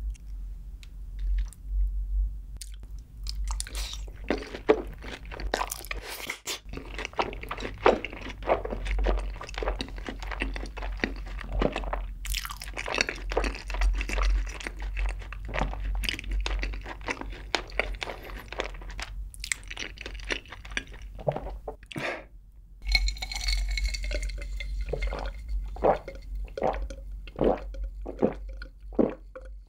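Close-miked biting and chewing of crispy sauce-glazed fried chicken (yangnyeom chicken), with dense crunching and wet mouth sounds. In the last few seconds come a row of evenly spaced swallowing gulps as a drink is taken.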